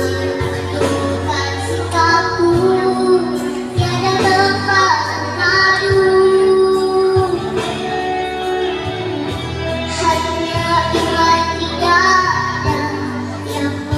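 A child singing a melody with long held notes over musical accompaniment.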